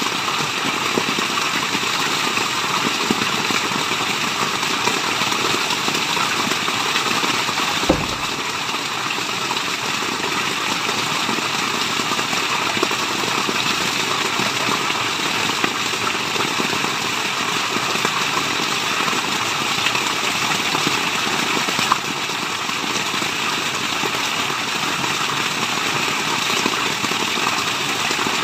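Steady rushing water, an even white-noise hiss with no pauses. One brief low thump about eight seconds in.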